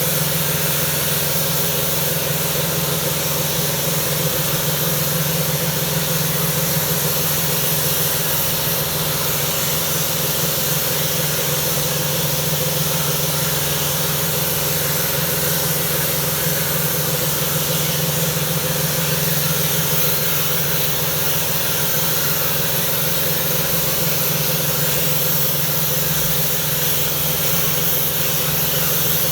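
Pressure washer running steadily: a constant motor and pump hum under the loud hiss of its water spray.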